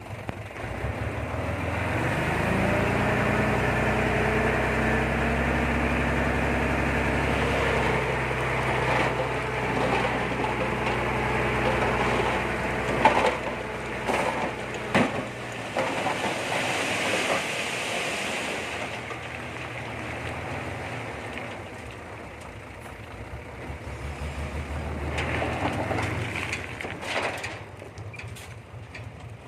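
Komatsu D20P crawler bulldozer's diesel engine revving up about a second in and running steadily under load. A few sharp knocks come about halfway, the engine note drops, then it rises again near the end.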